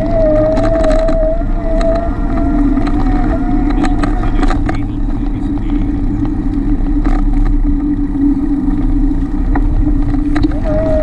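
Steady riding noise from a moving bicycle: a constant low rumble with a wavering whine over it that fades about four seconds in and returns near the end, and scattered clicks and rattles.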